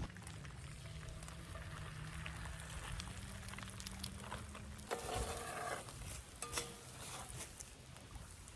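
Breakfast frying in a pan over a campfire, a faint steady sizzle, with a few light clicks of a utensil against the pan around the middle.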